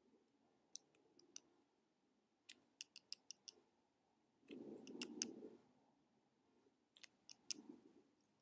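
Faint, irregular sharp clicks in small clusters, with a short scratchy rustle about halfway through: an animal at a feeder pecking at and handling seeds or nuts.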